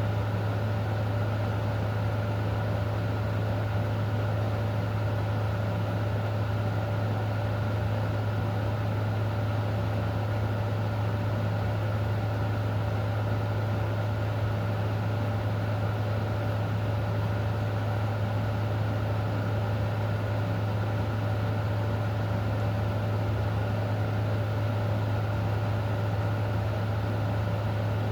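Steady, unchanging low mechanical hum with a fainter higher tone, over an even background hiss.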